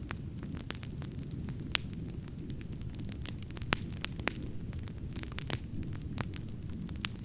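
Wood campfire burning with a steady low rumble of flames and frequent sharp crackles and pops, a few of them loud.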